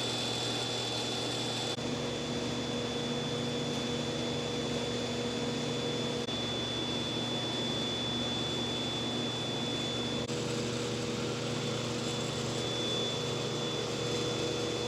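Steady mechanical hum and hiss of background machinery, with a thin, high-pitched whine running through it; no single event stands out.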